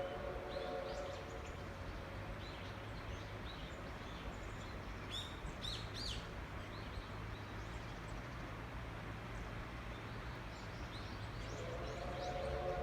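Small birds chirping on and off over a steady low hum, with a steady siren-like tone fading in near the end.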